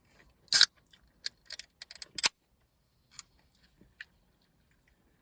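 Handling noises of a takeout meal: a loud click about half a second in, then a quick run of sharp clicks and clatters, and two more single clicks later.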